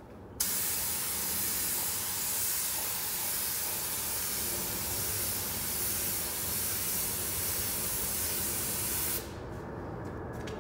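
Air-fed automotive paint spray gun spraying in one long, steady hiss that starts abruptly and cuts off near the end.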